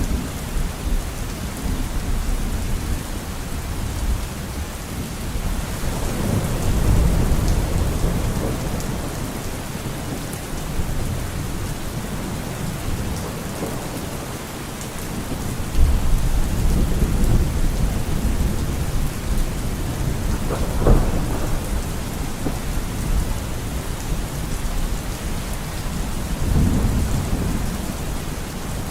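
Steady heavy rain with rolling thunder: low rumbles swell and fade several times, with a sharper crack of thunder about two-thirds of the way through.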